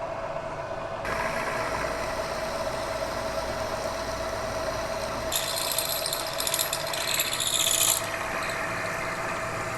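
Bridgeport milling machine running, its end mill cutting into the block with a steady hum and rasping cutting noise that picks up about a second in. A loud high hiss joins from about five to eight seconds in.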